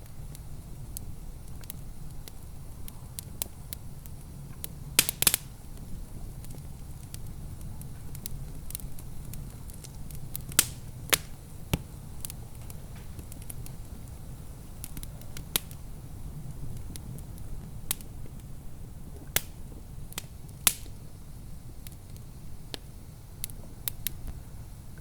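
Wood fire crackling in a fireplace, with irregular sharp pops, the loudest about five, ten and twenty seconds in, over a steady low rumble.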